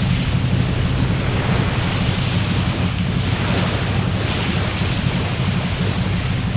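Wood fire burning in a Coleman Fire Disc fire pit, giving a loud, steady low rushing sound with wind on the microphone, and a thin steady high tone over it; no distinct crackles.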